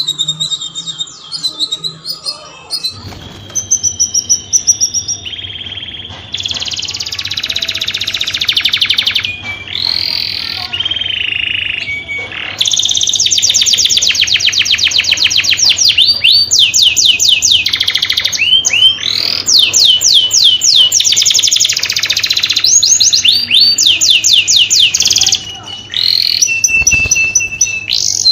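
Canary singing long, rapid trills of fast repeated high notes, with pitch glides between phrases and a few short breaks.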